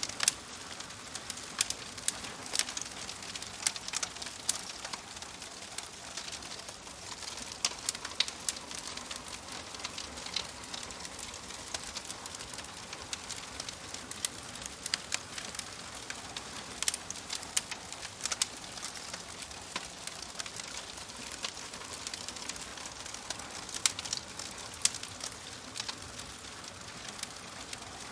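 Fireplace fire crackling: a steady soft hiss with frequent irregular sharp pops and snaps, a few louder than the rest.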